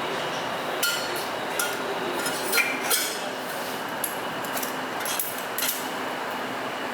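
Light metal clinks and taps from tools and exhaust parts being handled, about seven irregular strikes with a short ring, the loudest between two and three seconds in, over a steady background hiss.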